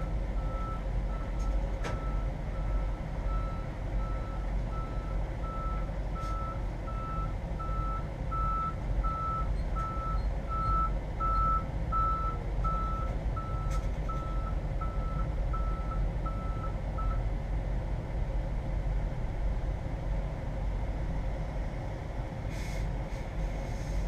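Vehicle backup alarm beeping at a steady pitch, about one and a half beeps a second, until it stops about 17 seconds in, over the constant low rumble of an idling engine. A few faint clicks are heard.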